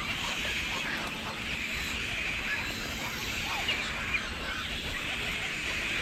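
Many birds calling at once, a dense, steady chatter of short overlapping chirps and squawks over a low rumble, with two slightly louder calls around the four-second mark.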